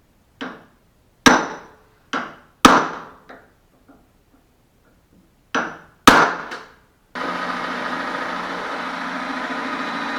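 Hammer striking a punch to center-mark a worn door hinge pin for drilling out: six sharp metal strikes in three pairs, each a lighter tap followed by a harder blow. About seven seconds in, a steady whirring motor starts and keeps running.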